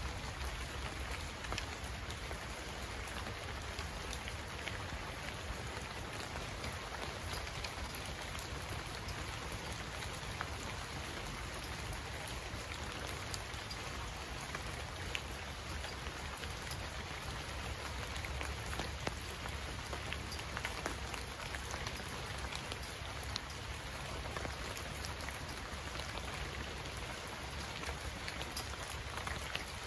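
Steady rain falling, with many separate drop hits heard through a dense, even wash.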